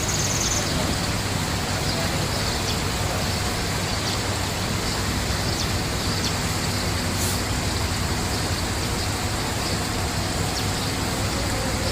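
Steady outdoor rushing noise with a low hum underneath and a few faint, short high chirps.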